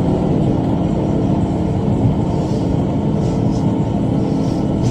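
Tractor running steadily while bush hogging with a rotary cutter: an even engine drone that holds at the same level throughout.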